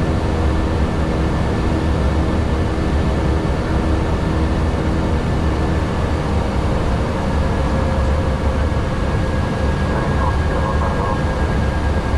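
Airbus A321neo flight-deck noise: a steady low rumble of engines and airflow, with a set of steady hums that fade about halfway through.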